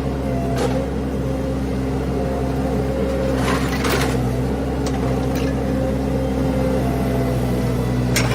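Mini skid steer's engine running at a steady speed, with a few short knocks and rattles about half a second in, around four seconds and near the end.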